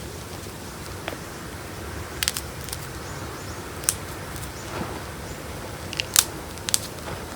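Chunk of gym chalk being crushed between the fingers: a few sharp, separate crunching cracks, two close together, then one, then a cluster with the loudest about six seconds in.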